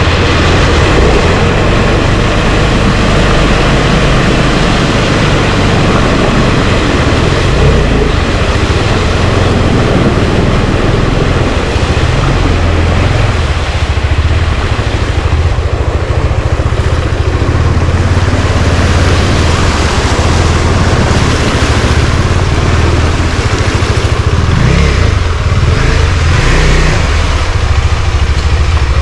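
A motor vehicle's engine running steadily as it is driven, with a continuous low rumble and loud road noise.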